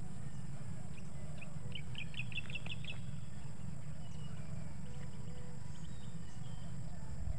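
Birds calling in open fields: one gives a quick run of about eight short, high chirps about two seconds in, with a few fainter calls after. Under them is a steady low rumble.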